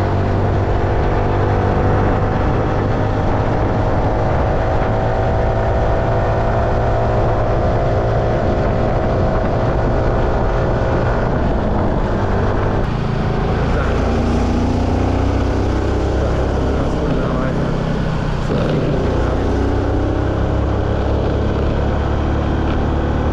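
Vehicle engine and road noise heard from inside a moving vehicle: a steady low drone whose pitch drifts slowly up and down as the engine speed changes, with a shift in the sound about halfway through.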